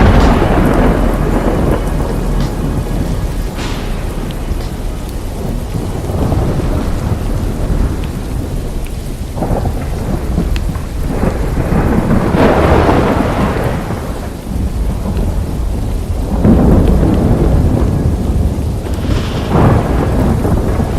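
Rain falling steadily through a thunderstorm, with several rolls of thunder swelling up over it, the loudest about twelve seconds in and again from about sixteen seconds on.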